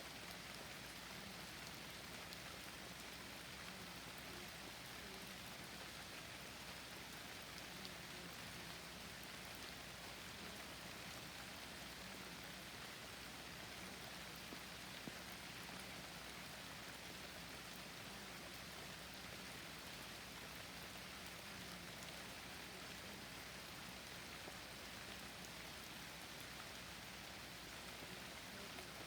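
Rain falling steadily: a faint, even hiss of rainfall with the odd single drop ticking through.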